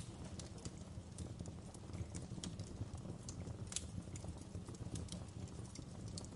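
Wood fire crackling in a fireplace: a steady low rumble of the burning fire with irregular sharp pops and snaps. One louder pop comes a little past the middle.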